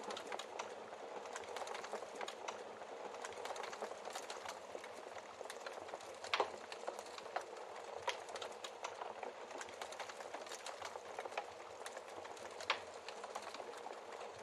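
Wood fire crackling steadily in a fireplace, with many small snaps and two louder pops, one about six seconds in and one near the end.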